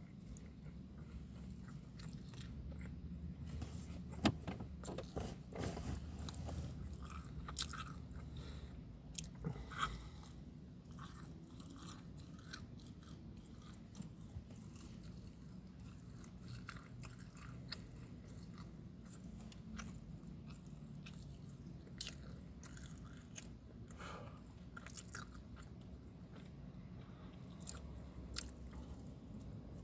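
A person chewing and biting food close to the microphone, with scattered small crunches and mouth clicks, over a low steady background hum.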